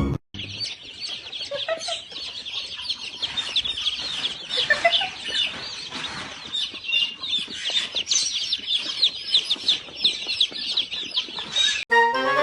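A crowd of birds peeping, many rapid, high-pitched calls overlapping, with a few lower rising calls among them.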